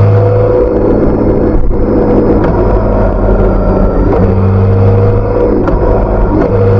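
BMW K1600B's inline six-cylinder engine running through its stock exhaust at a steady, loud note. Its pitch dips slightly and then rises a little near the end.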